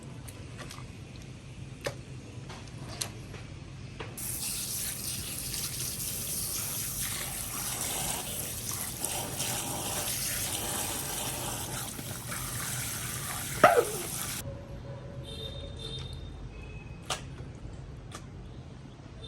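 Water running for about ten seconds, starting and stopping abruptly. A few sharp clicks come before and after it, and a loud knock, the loudest sound, comes just before the water stops.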